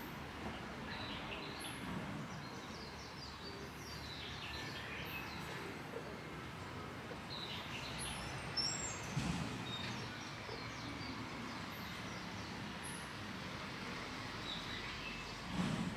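Small birds chirping in short, quick calls over a steady background noise, with a few louder soft knocks about halfway through and again near the end.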